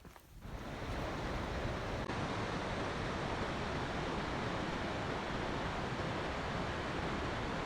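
Rushing water, such as a forest stream or small waterfall, with a steady, even roar that fades in about half a second in.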